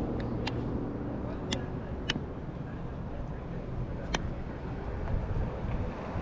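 A vehicle engine running with a low, steady rumble, with several sharp clicks scattered through it.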